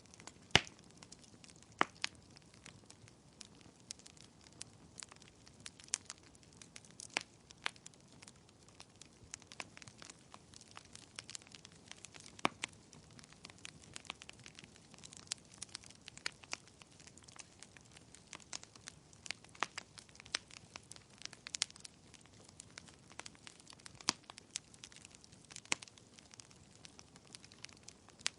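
Wood fire crackling, with irregular sharp pops and snaps over a faint hiss; the loudest pop comes about half a second in.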